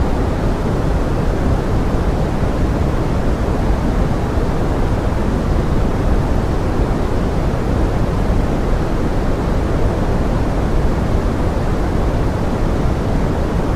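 Pink noise and forest rain: a steady, even rushing hiss, strongest in the low end, with no single drops or other sounds standing out.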